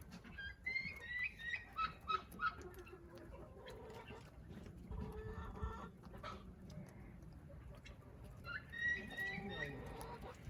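Chickens clucking and calling. A run of short, high calls comes in the first couple of seconds and another about eight and a half seconds in, with lower clucks between.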